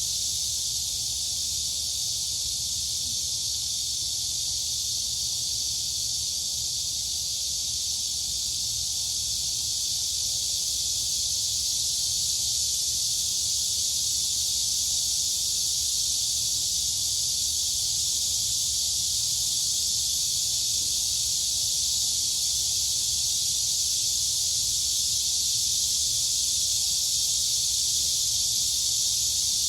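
Dense, steady chorus of crickets and cicadas: a continuous high-pitched shrill with no breaks, growing slightly louder about a third of the way in.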